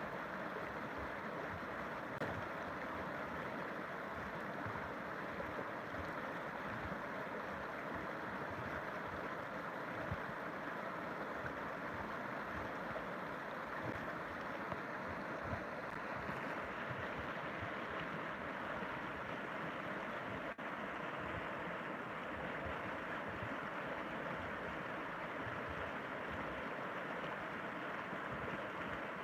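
A river's water rushing in a steady, unbroken stream.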